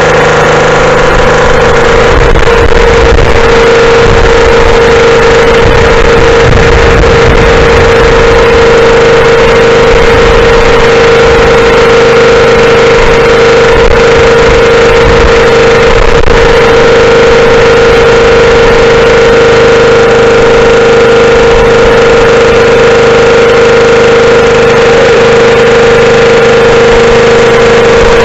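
Rebuilt rotavator's engine running steadily at a constant speed, loud and unchanging, with one strong steady pitch.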